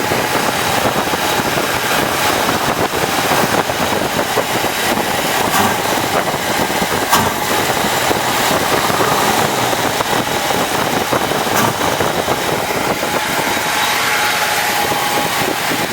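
1967 Oldsmobile Delmont 88's V8 idling steadily on a cold start, its first run after sitting for about a year.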